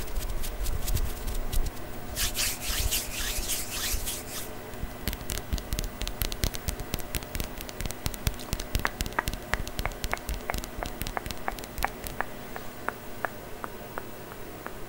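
Close-miked ASMR trigger sounds made by hand: about two seconds of scratchy rubbing noise, then a long run of quick taps, the later ones with a short, ringing ping, about three a second.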